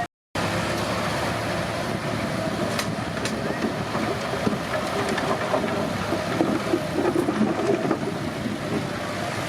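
Komatsu D31P crawler bulldozer running at work: a steady diesel engine drone with irregular clanking from the steel tracks. The sound drops out completely for a moment at the very start.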